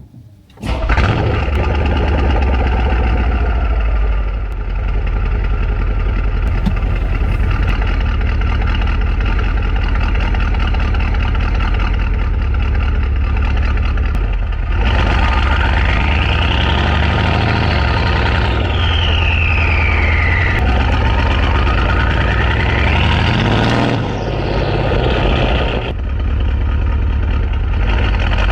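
Mercedes-AMG 5.5-litre twin-turbo V8 starting suddenly about a second in, then running at a steady idle through its exhaust with a deep, even note. Roughly midway, a few higher tones glide up and down over the idle.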